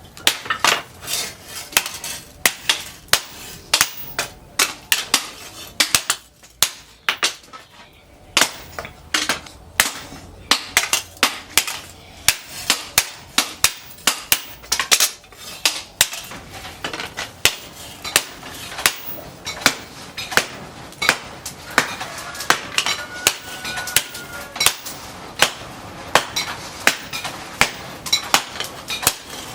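Hammer striking steel on an anvil, forging disc-plough steel into a machete blank: sharp, ringing blows about two a second, briefly sparser about seven seconds in.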